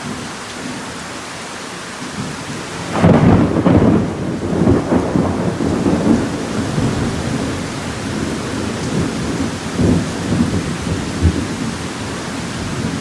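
Heavy rain falling steadily during a thunderstorm, and about three seconds in a loud crack of thunder breaks into a long rolling rumble that surges several times before easing back toward the rain.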